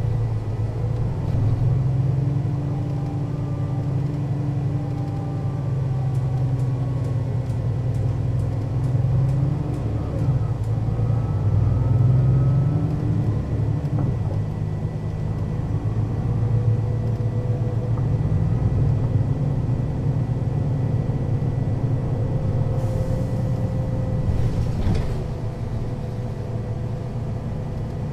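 Mercedes-Benz O 530 Citaro city bus from 2001, heard while driving: its diesel engine and ZF automatic gearbox run steadily, with the engine note rising and dropping back as the gearbox changes gear. Two short hisses come near the end.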